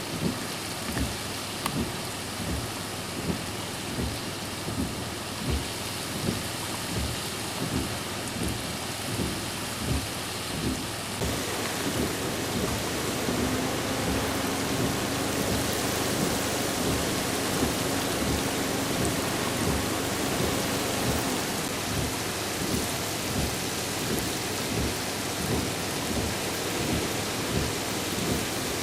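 Heavy typhoon rain pouring steadily, with repeated low thumps about once a second. The downpour grows louder about eleven seconds in.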